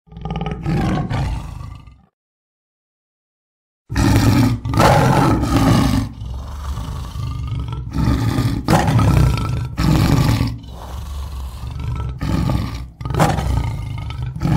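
Tiger growling and roaring: a short call, about two seconds of dead silence, then a long run of repeated growls and roars from about four seconds in.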